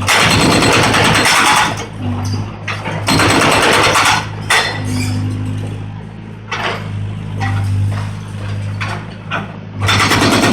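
Volvo 55 excavator's diesel engine running steadily, with loud bursts of crunching, clattering and knocking as concrete is broken and rubble falls: once at the start, again a few seconds in, and again near the end.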